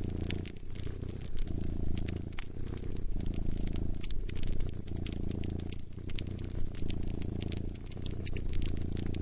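A cat purring close up in steady cycles of about one a second, with the snapping crackles of a wood fire over it.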